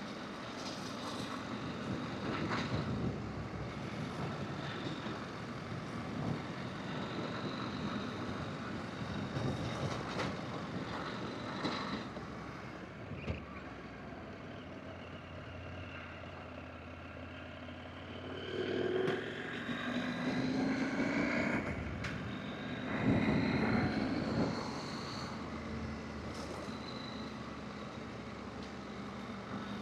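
Adventure motorcycle riding a dirt forest road: the engine runs steadily under wind and tyre noise, and past the middle it rises in pitch and gets louder twice as it accelerates.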